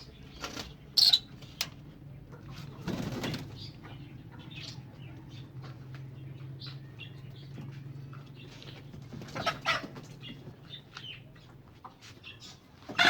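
Pigeons flapping their wings in short bursts, with faint cooing and small chirps from the birds in between.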